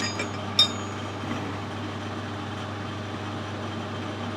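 Two short metallic clinks, at the start and just over half a second in, as small metal parts are handled, over a steady low workshop hum.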